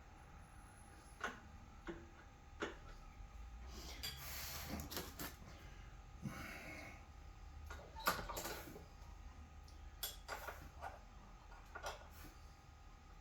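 Scattered light clicks and knocks of small tools and parts being handled, with a short rustle about four seconds in.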